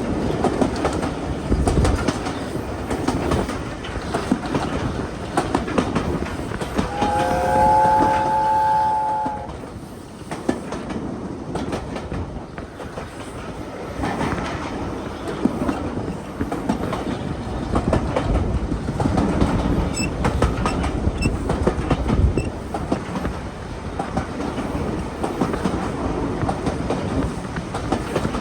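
A steam-hauled train running, its wheels clicking over rail joints. About seven seconds in, the locomotive's chime whistle sounds a steady three-note chord for about two and a half seconds.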